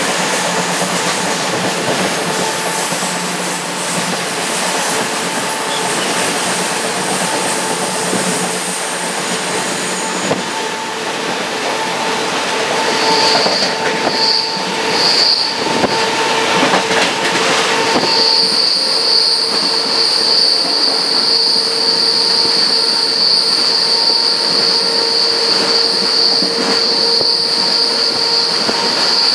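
Panama Railroad train running along the track, heard from inside a carriage: a steady rumble of wheels on rails. The steel wheels give three short high squeals against the rails a little after halfway through, then a continuous high squeal from about two-thirds of the way on.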